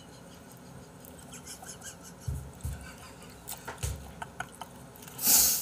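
Close-miked eating sounds of a man chewing braised beef intestine: soft wet mouth clicks and a few low bumps, with a short, loud, breathy burst near the end.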